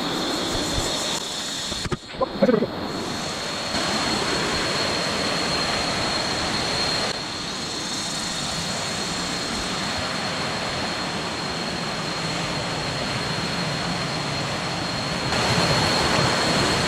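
Steady rushing of water from a waterfall, with a short break about two seconds in.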